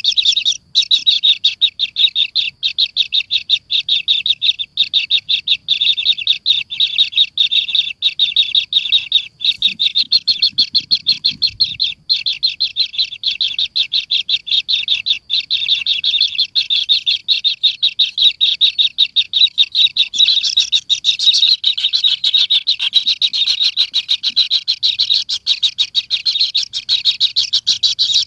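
A bird chirping rapidly and without a break, about five short chirps a second. A brief low rumble comes about ten seconds in.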